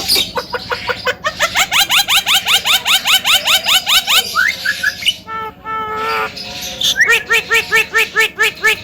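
Javan myna calling: a fast run of short rising notes, about four a second, then a brief harsh chatter about halfway through, then another run of rising notes near the end.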